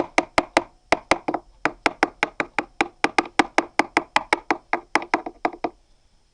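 A rapid run of woody knocks, about five a second, each with a short hollow ring. It goes on for most of six seconds and then stops.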